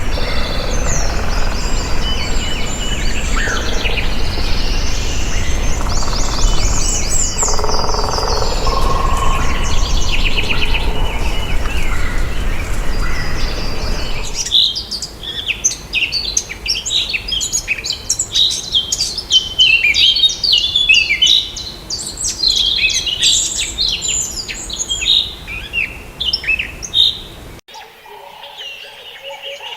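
Birds calling and chirping over a steady low rumble. About halfway through the sound changes abruptly to a different chorus of rapid high chirps, and it changes again shortly before the end.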